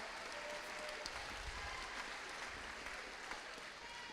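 Audience clapping steadily, tapering off slightly near the end.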